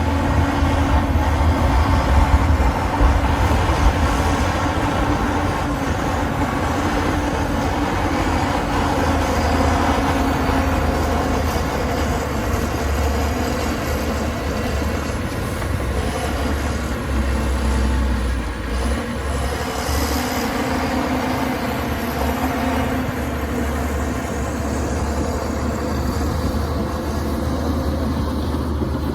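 Heavy diesel earthmoving machinery running steadily with a deep low rumble that swells and eases as the engine load changes.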